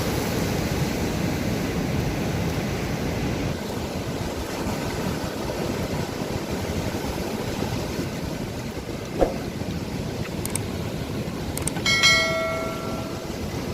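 Steady wash of sea surf. About twelve seconds in, a single bright bell-like ring sounds and fades over about a second and a half.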